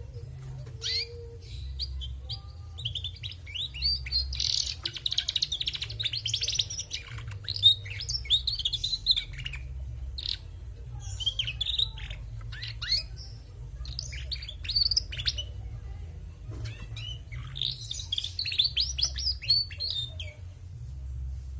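Female domestic canary twittering in quick runs of high chirps, several phrases of a few seconds each with short gaps between them, over a steady low hum.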